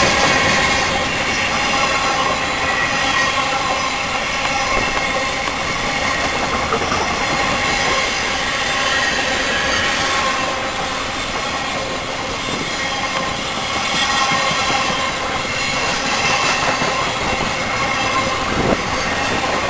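Freight train cars rolling past on the rails: a continuous wheel-on-rail rumble and rattle with thin steady squealing tones from the wheels. A single sharp clack comes near the end.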